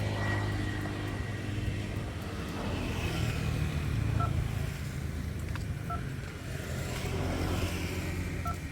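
A steady low motor hum that swells and eases a little, with three short electronic beeps spaced a couple of seconds apart.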